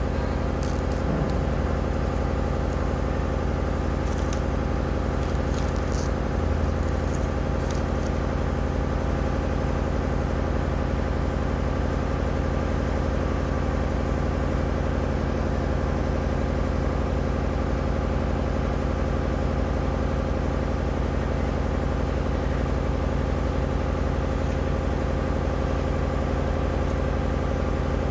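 A steady machine hum made of several low, even tones, with a few light clicks in the first eight seconds or so.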